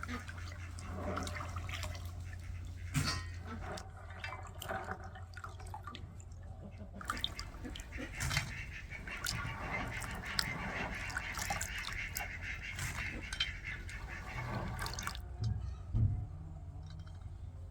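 Water dripping and splashing, then a stretch of water running or pouring from about 8 seconds in that cuts off suddenly near the end, over a steady low hum.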